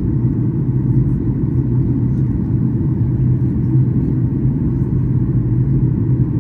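Steady low rumble inside the cabin of a Boeing 737-800, with CFM56-7B engine and airflow noise and no sudden events.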